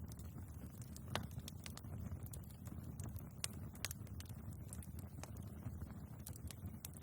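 Wood fire burning in a fireplace: logs crackling and popping in irregular sharp snaps over a steady low rumble of the flames, with the loudest pops about a second in and near the middle.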